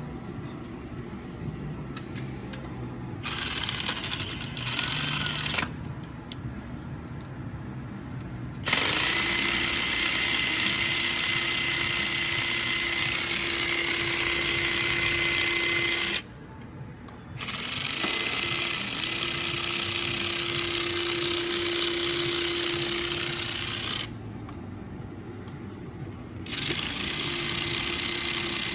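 A power tool running in several long bursts with a steady whine and a harsh hiss, stopping and starting again between runs.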